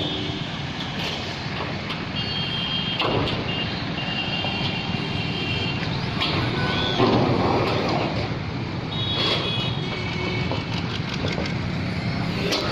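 Motor vehicle running steadily with a low rumble, overlaid by short, high-pitched beeping tones that come and go several times.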